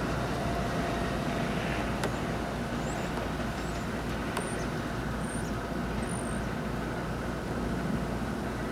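Steady low rumble of an NJ Transit commuter train hauled by a PL42AC diesel locomotive, running away along the track. A few short high-pitched chirps come through in the middle.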